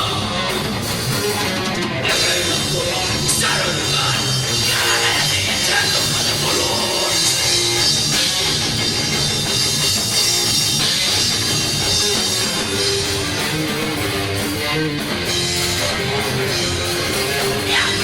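Heavy rock band playing live, with a drum kit and electric guitar.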